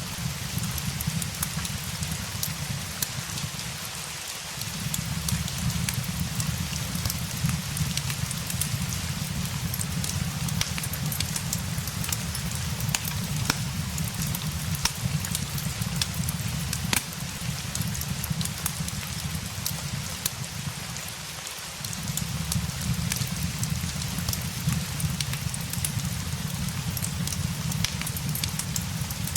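Steady rain hissing, mixed with a fireplace crackling in scattered sharp pops. A low rumble runs underneath and drops away briefly twice, about four seconds in and again just past twenty seconds.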